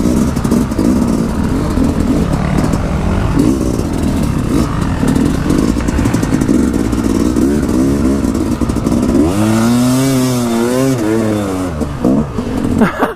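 Dirt bike engine revving up and down while being ridden, the pitch rising and falling several times in a row between about nine and twelve seconds in.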